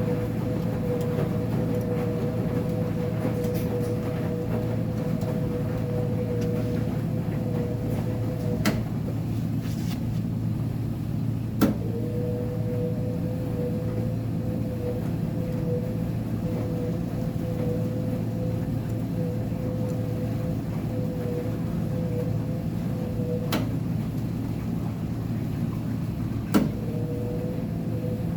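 Uni-Mac UniMat 35 front-load commercial washer-extractor tumbling a wash load: a steady motor hum over the drum's rumble, which stops with a click for about three seconds and starts again with a click, twice, as the drum pauses and reverses direction.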